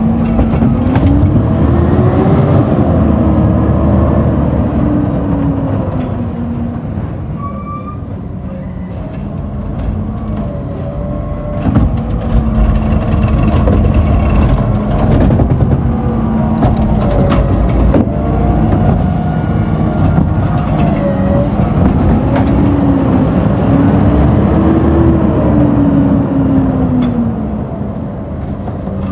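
Garbage truck's diesel engine running loud, its pitch rising and falling twice as it speeds up and slows down.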